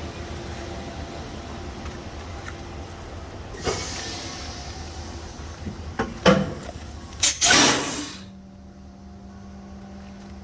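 Compressed air hissing from a semi-truck's air system in short bursts with sharp clicks between them, the loudest a hiss of about a second near the end, over a steady rumble that drops away after it.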